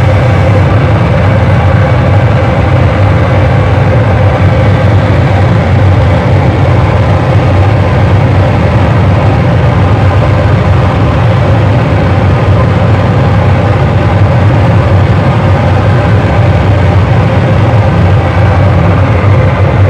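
Loud, dense wall of distorted electronic noise from a live harsh-noise performance, with a heavy steady low rumble under a constant hiss. It holds without a break or change.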